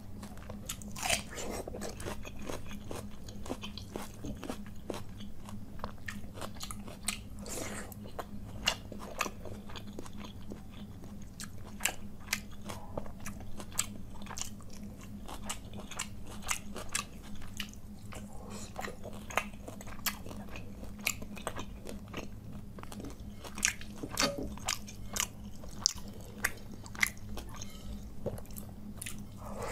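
Chewing of mouthfuls of panta bhat (water-soaked rice) eaten by hand, a steady run of short wet mouth clicks and smacks with a few louder crunchy bites.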